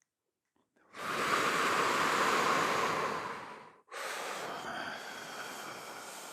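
Deep, full breaths close to the microphone. After a second of silence, one long loud breath lasts nearly three seconds, and after a brief break a second, slightly softer breath follows.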